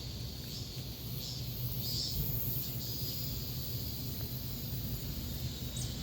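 Outdoor background noise: a steady low hum with faint, scattered high chirping over it.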